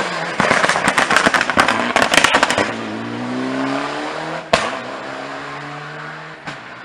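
Rally car crackling and popping from the exhaust for about two seconds, then accelerating away with its engine note climbing. A sharp crack a little after halfway marks a gear change, after which the engine pulls on steadily.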